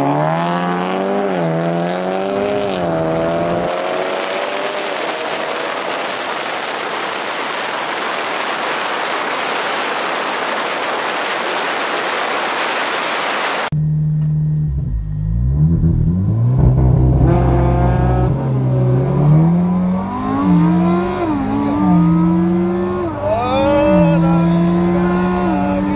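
Race start: car engines rev and pull away, rising in pitch over the first few seconds, then a steady rushing hiss takes over. From about 14 s in, a remapped VW Golf R's turbocharged four-cylinder is heard from inside its cabin at full throttle. The pitch climbs and drops back at each of several quick upshifts as it races an Audi R8.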